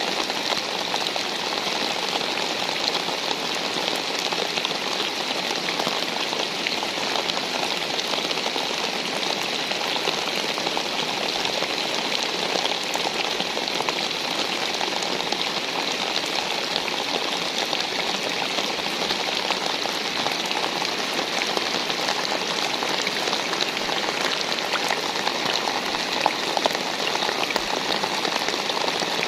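Steady rain falling: a continuous hiss of many small drop impacts, even throughout with no lulls.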